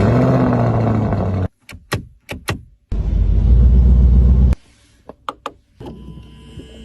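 Lamborghini exhaust revving in two loud blasts, each about a second and a half long, with sharp clicks between them; a quieter steady sound follows near the end.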